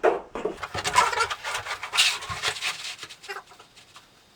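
Stiff plastic Schluter Ditra Heat membrane panels crackling and rattling as they are handled and laid onto the floor, dying away near the end.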